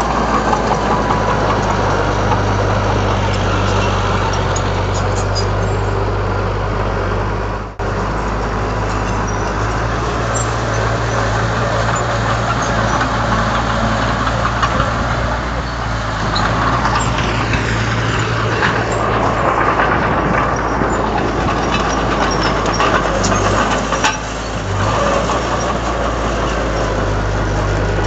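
Komatsu D31 bulldozer's diesel engine running steadily, with a brief dropout about eight seconds in and a short dip in level near the end.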